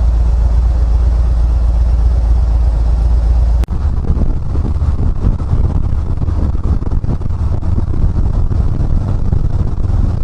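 Harley-Davidson Ultra Limited motorcycle on the move: engine and road rumble with heavy wind noise on the microphone. The sound breaks off abruptly about three and a half seconds in, then goes on as a rougher, more uneven rumble.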